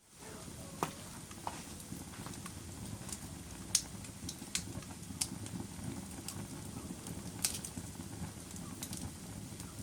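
Wood fire burning in a fireplace: a steady low rush of flame with scattered sharp crackles and pops, a few seconds apart, the loudest pop about four seconds in.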